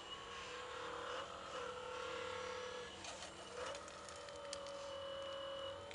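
Electric motor of a 1:14.5-scale radio-controlled construction machine whining steadily, its pitch dipping and sliding back up a few times as the load changes, with a few light clicks.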